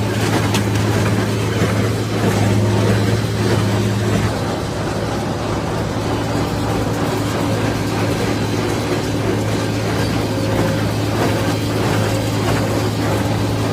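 Tractor engine running steadily under load while it drives a hay baler. The engine note shifts slightly about four seconds in.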